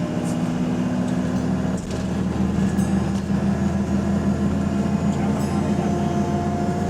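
Diesel engine of a double-decker bus heard from inside the cabin, a steady drone under way, with a higher whine that rises slightly in pitch near the end.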